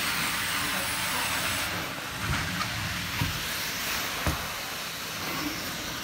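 Carpet-cleaning hot-water extraction wand and vacuum hose running over carpet: a steady rushing hiss of spray and suction, with a few soft thumps partway through.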